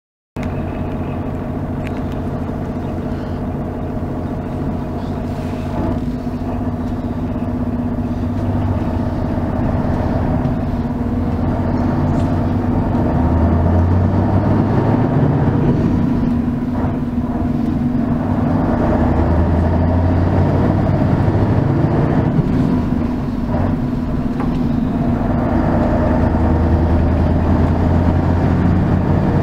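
Mercedes-Benz O 403 SHD coach's V8 diesel engine running, heard from inside the bus. It cuts in abruptly at the start, then grows louder and swells and eases several times as the bus pulls.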